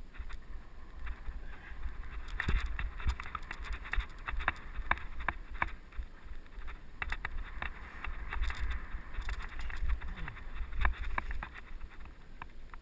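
Mountain bike ridden on a dirt trail, heard from a helmet-mounted camera: tyres crunching over the ground, with frequent clicks and rattles from the bike over bumps, and wind buffeting the microphone.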